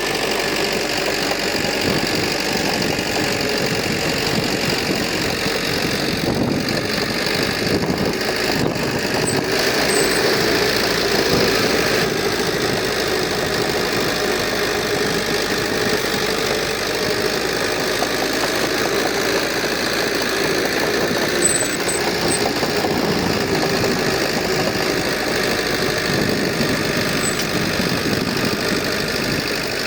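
Heavy construction-machinery diesel engine running steadily, with a slight swell in level about ten seconds in.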